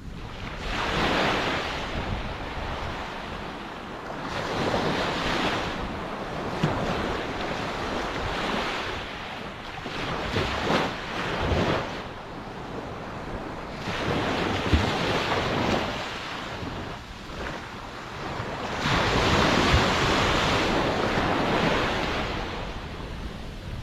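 Ocean waves breaking and washing onto the shore, the surf swelling and receding about five times, every four to five seconds, loudest near the end.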